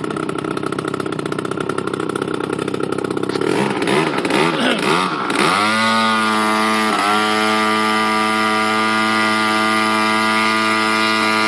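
DLE 30 single-cylinder two-stroke gasoline engine of an RC model plane, running through a Keleo exhaust. It idles roughly, is blipped a few times, then is opened up about five and a half seconds in to a steady high-rpm run, with a brief dip about a second later.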